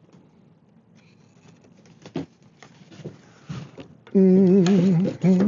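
A few faint clicks and taps from hands working with the glued chair parts. About four seconds in, a man's wordless voice takes over, held for over a second at a low, wavering pitch like humming.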